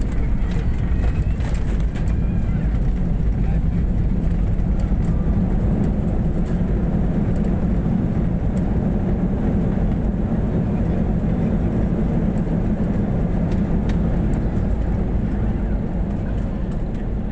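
Airliner cabin noise heard from inside the cabin during the landing: a steady, loud low rumble of engines and airflow that swells slightly about two seconds in and then holds.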